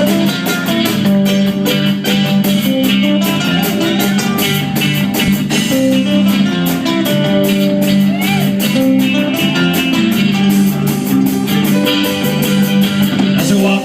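A band plays the instrumental intro of a rock song, guitar leading over a steady beat.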